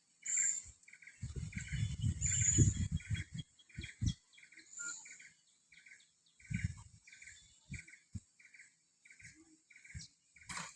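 A bird chirping over and over, short even calls about two a second. Low rumbles and a few thumps come in the first few seconds, and there is a sharp click near the end.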